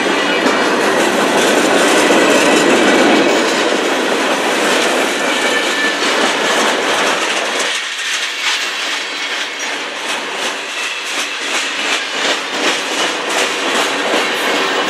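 Freight cars of a CN manifest train rolling past, their wheels clacking rhythmically over the rail joints. About halfway through the deeper rumble drops away, leaving sharper, evenly spaced clacks.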